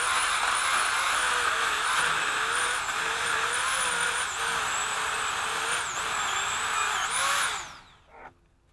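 Chainsaw running at high speed, its pitch dipping briefly several times, then let off so the motor winds down near the end, followed by a single click.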